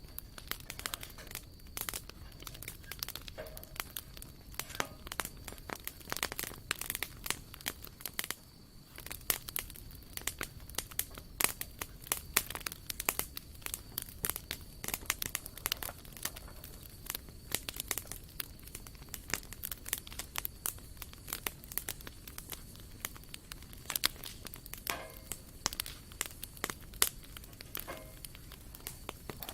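Wood campfire crackling, with many irregular sharp pops and snaps over a low steady hiss of burning.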